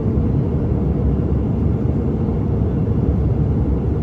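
Steady low rumble of a passenger airliner, heard from inside the cabin.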